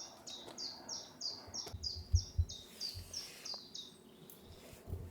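A small songbird singing a long run of repeated high, falling notes, about three a second, that stops a little before four seconds in.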